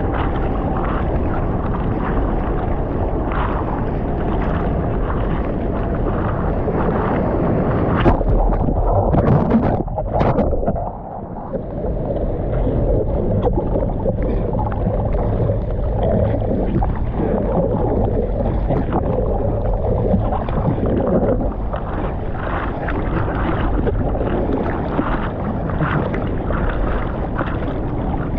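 Rushing water and wind buffeting the microphone of a camera out in the surf. About eight seconds in there is a louder surge, then a brief muffled drop before the steady rush returns.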